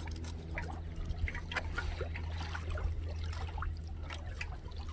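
A knife cutting through the small bones of a trout fillet: faint, irregular crunches and wet slicing sounds over a steady low hum.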